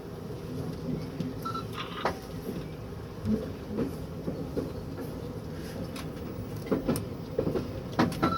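Low rumble inside a railway cab as the train moves slowly, with scattered knocks and clicks and a brief high squeal about a second and a half in and again near the end.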